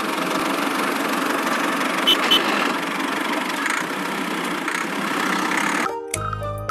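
A motor running steadily, then cutting off near the end as music begins.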